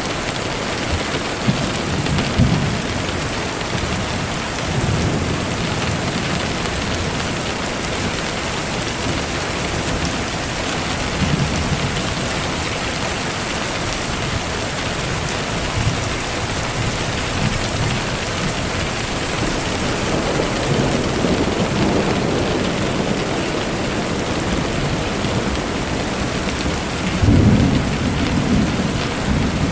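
Steady heavy rain with low rolling rumbles of thunder coming and going, the loudest rumble near the end.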